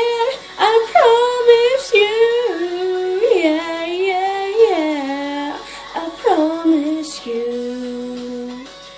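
A young female voice singing a pop song, sliding through quick runs between notes with no clear words, then settling on a long, steady low note about seven seconds in.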